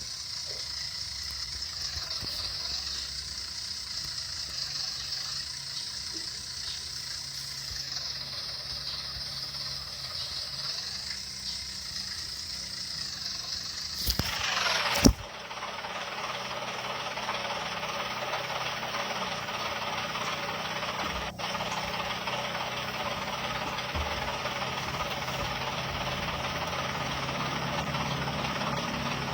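Cartoon sound effects of a construction truck's engine running, with a steady hiss over a low hum. About halfway through, a loud falling sweep ends in a sharp knock, and the engine noise then runs steadier and fuller.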